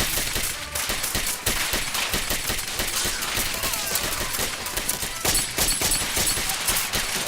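Dense, rapid gunfire from several guns firing at once, shots overlapping without a break.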